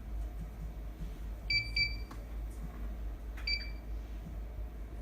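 Short high electronic beeps from a Pro-Face GP577R-TC11 touch-screen operator panel: two quick beeps about a second and a half in, then a third about two seconds later. A steady low hum and a few faint clicks run underneath.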